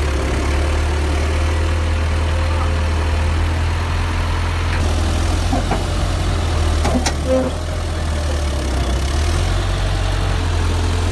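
Tractor engine running steadily at low revs, with a couple of short knocks about six and seven seconds in.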